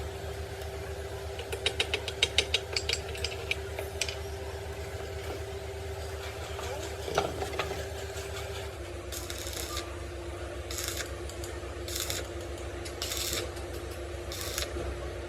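A steady machine hum, with a quick run of small metallic clicks and rattles early on. From about the middle, short scraping strokes repeat about once a second.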